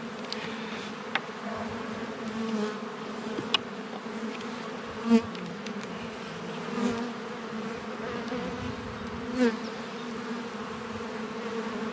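Honeybee colony buzzing around an open hive: a steady hum, with several brief louder swells as single bees pass close.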